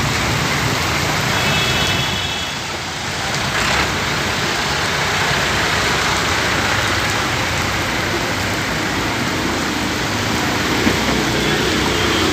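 Steady rush of heavy rain and water.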